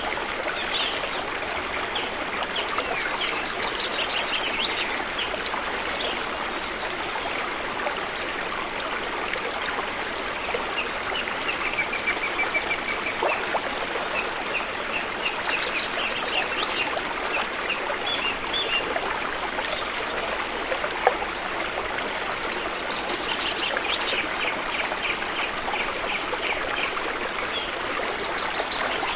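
A river flowing steadily, with birds calling over it in repeated series of quick chirps and a short trill.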